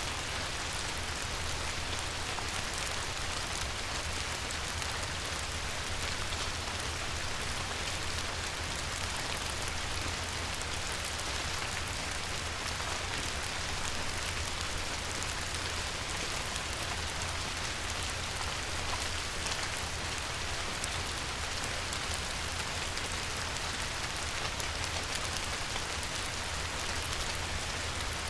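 Light rain falling on a river, a steady hiss of many fine drops pattering on the water, with a steady low rumble underneath.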